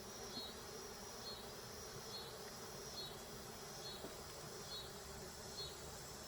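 Honeybees from an open hive buzzing in a steady drone: the colony is agitated, its noise raised by a rough inspection.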